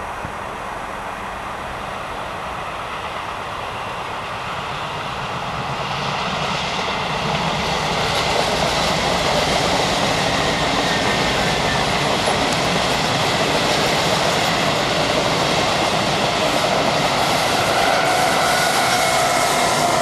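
Electric regional passenger train approaching and passing close by on a curve: steady rolling noise of wheels on rail that grows louder from about six seconds in and stays loud. A faint ringing tone comes in near the end.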